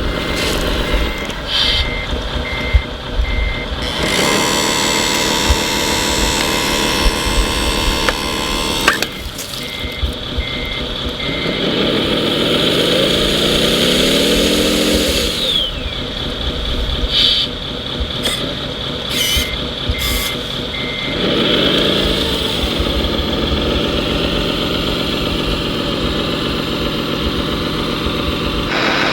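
RC scale truck and construction machines running, with a reversing beeper sounding in runs of short even beeps three times. A rising whine about halfway through, like a small motor or hydraulic pump speeding up.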